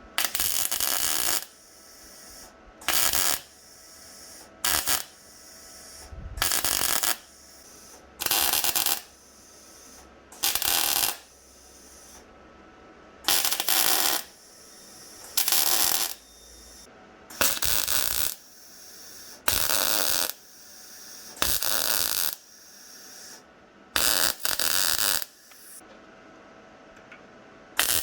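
MIG welder laying a dozen or so short crackling bursts, each about a second long, with pauses of a second or two between them: tack or stitch welding a sheet-metal body panel.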